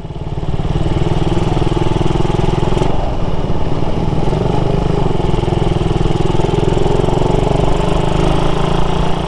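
Suzuki Raider 150 motorcycle engine running at steady riding speed; its note dips briefly about three seconds in, then picks up again.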